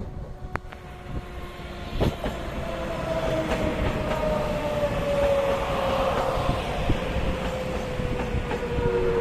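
Train running past, growing louder, with a whine that slowly falls in pitch and a few sharp clicks of the wheels over rail joints.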